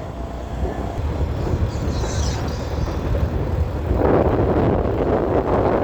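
Motorcycle running under way with wind rushing over the microphone; the wind noise grows much stronger about four seconds in.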